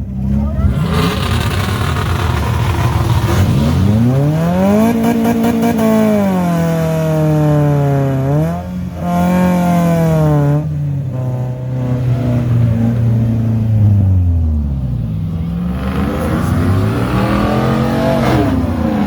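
Car engine revving hard, its pitch climbing, holding and dropping back several times.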